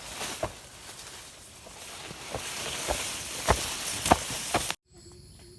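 Rustling with about five sharp knocks spread over the first few seconds. The sound cuts off abruptly near the end, giving way to a much quieter scene.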